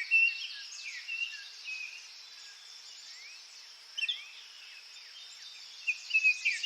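Small birds chirping and twittering in short calls, some sweeping up or down in pitch, over a steady high hiss; the calls come thickest about four seconds in and again near the end.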